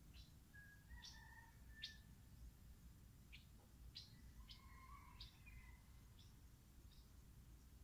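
Faint birds chirping: scattered short high chirps and a few brief whistled notes, over near-silent background.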